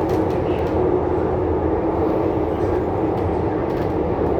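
A CRRC Changchun C-train electric multiple unit running at speed, heard from inside the car: a steady rumble of wheels on rail with a constant hum running through it.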